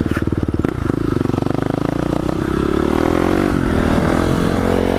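Dual-sport motorcycle engine pulling hard under throttle. It starts with choppy low-rev pulses, then the revs climb steadily for a couple of seconds and hold high. Wind noise runs over the microphone throughout.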